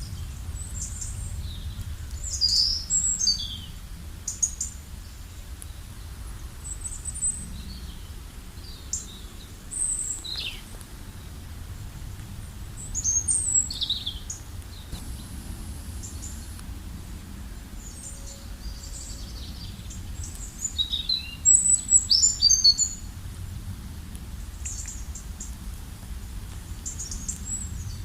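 Wild birds chirping and singing, with short high calls and quick twittering phrases coming in scattered flurries. The busiest, loudest flurry comes about two-thirds of the way through. A steady low rumble runs underneath.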